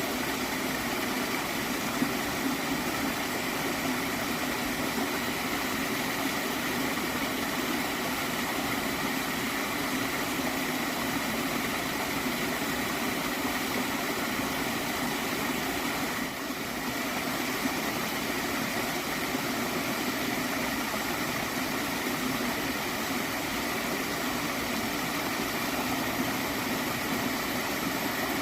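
Steady flow of a gentle water stream, an even rushing noise without pauses, dipping briefly about sixteen seconds in.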